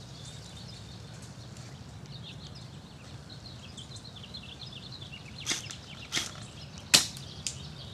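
Faint bird chirps over steady outdoor noise, then three sharp cracks in the last few seconds, the third the loudest.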